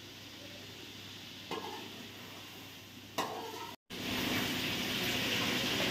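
Chicken frying in ghee in a steel karahi over a high gas flame: a steady sizzle as it is stirred with a spoon, with two short knocks of the spoon on the pan. The sizzle becomes clearly louder about two-thirds of the way through.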